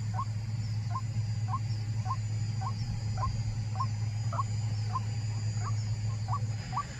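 White-breasted waterhen (ruak-ruak) calling: a steady series of short upward-sweeping notes, about two a second.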